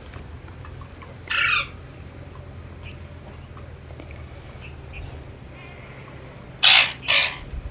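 Ringneck parrot squawking: one short call about a second and a half in, then two loud, harsh squawks close together near the end.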